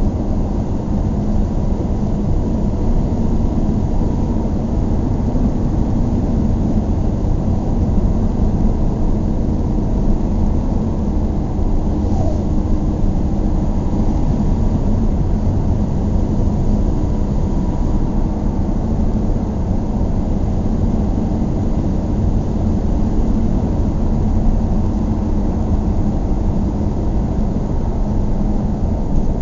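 Steady low rumble of a car driving: engine and road noise, unchanging throughout.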